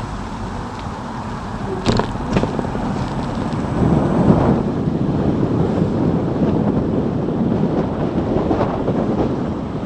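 Wind buffeting the microphone of a camera mounted on a moving electric motorcycle, with road and tyre noise, a couple of sharp knocks about two seconds in, and louder rushing from about four seconds.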